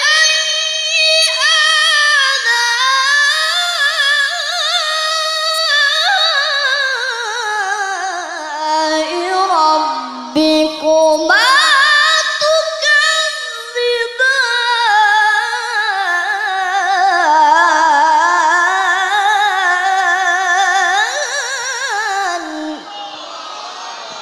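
A woman reciting the Qur'an in melodic tilawah style: long melismatic phrases with wavering ornaments on held notes. Her voice sinks lower midway, with short breaks for breath, then climbs high again.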